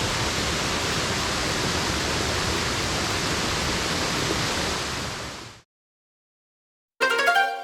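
Waterfall rushing in a steady roar of falling water that fades out about five seconds in. After a moment of silence, a bright struck musical note rings out near the end and dies away.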